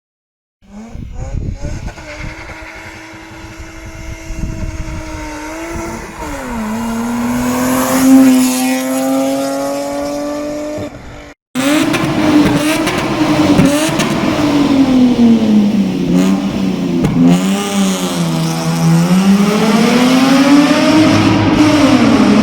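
Turbocharged Lexus IS200's two-litre straight-six engine running, starting about half a second in. Its pitch dips and climbs as it is revved, and after a brief dropout around eleven seconds in it revs up and down repeatedly.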